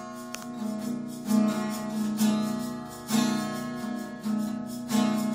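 Music: an acoustic guitar strumming chords, a fresh strum about once a second, in an instrumental gap between sung lines.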